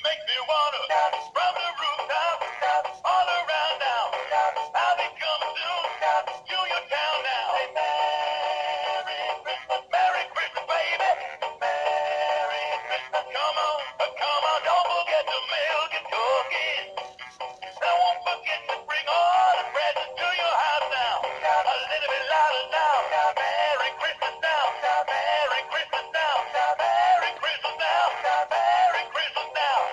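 Animated plush Christmas dog toy singing a Christmas song through its small built-in speaker, the voice and music thin and without bass, with a brief dip in the middle of the song.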